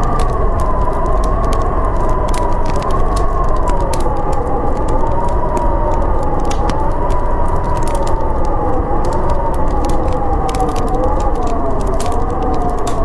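Howling storm wind, a wavering whistle that drifts slowly down in pitch over a steady low rumble, with a fire's crackles and pops throughout.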